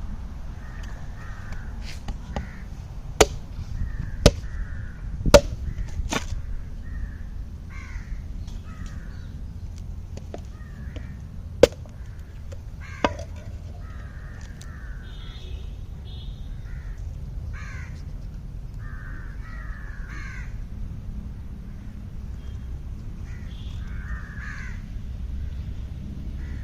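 Birds calling over and over in short repeated calls, over a steady low rumble. Several sharp clicks or knocks cut through between about three and thirteen seconds in, louder than the calls.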